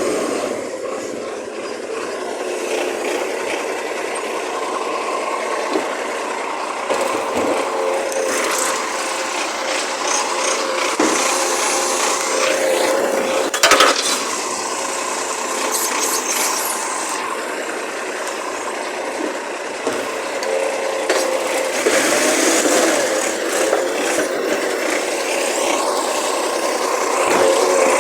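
A vehicle engine running, its pitch wavering up and down, with rubbing and scraping noise over it and a sharp knock about 14 seconds in.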